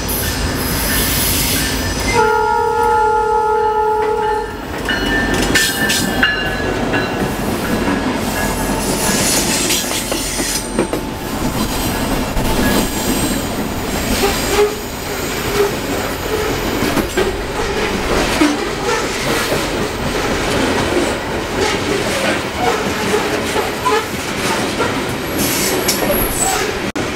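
Norfolk Southern freight train led by four SD60E diesel locomotives sounding its horn in one long chord-like blast about two seconds in. The locomotives then pass close by, followed by a long string of coal hopper cars rolling past with a steady rumbling clatter and repeated wheel clicks over the rail joints.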